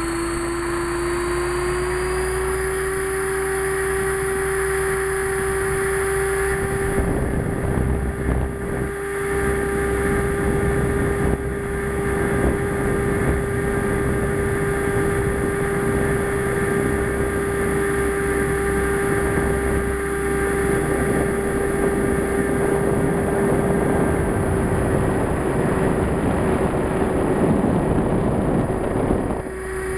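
Align T-Rex 500 RC helicopter's electric motor and rotor whine, rising in pitch over the first couple of seconds as it spools up to head speed, then holding one steady tone. A rushing noise joins it from about seven seconds in.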